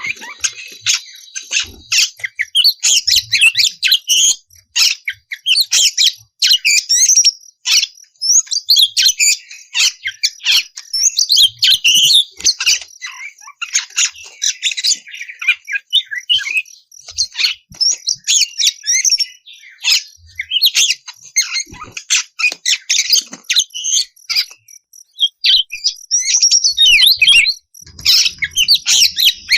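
Oriental magpie-robin (kacer) singing loudly in full song: a fast, nearly continuous stream of varied whistles and chirps mixed with sharp clicking notes, broken only by brief pauses.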